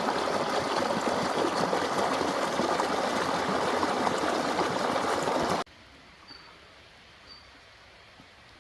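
Loud, steady rushing of water that cuts off abruptly a little past halfway, leaving a quiet background with a couple of short, high chirps.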